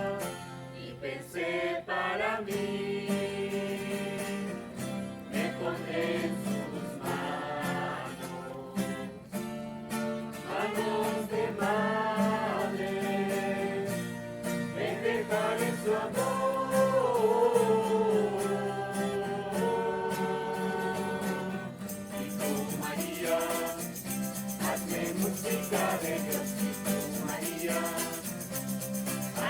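A religious hymn: singing voices over a steady instrumental accompaniment. About three-quarters of the way through, a bright shimmering rattle joins the music.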